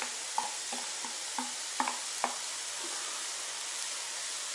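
Meat, onion and grated carrot sizzling steadily in a kazan over a full gas flame. In the first couple of seconds there are about six light knocks and scrapes of a wooden spatula as the carrot is pushed into the pot.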